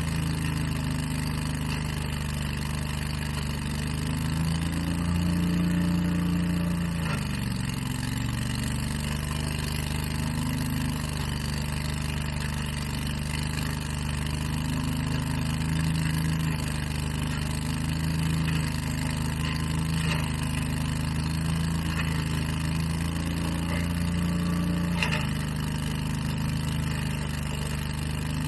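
Engine of outdoor power equipment running steadily, its pitch dipping briefly about seven seconds in and shifting again near the end.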